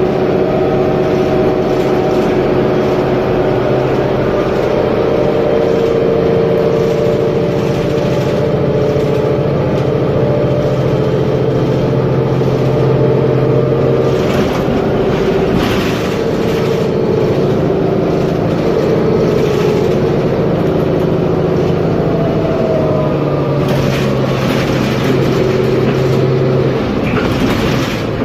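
Mercedes-Benz Conecto G articulated bus's OM457LA inline-six diesel engine running under way. It is a steady drone whose pitch shifts a few times, with a few short rattles in the second half.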